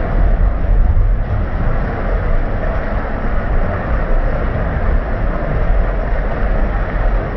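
Rain falling steadily, with a strong, unsteady low rumble underneath.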